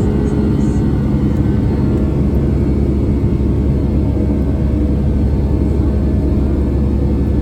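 Boeing 757-200 engines and airflow heard inside the passenger cabin as a steady, loud low rumble with a few steady low hums through it.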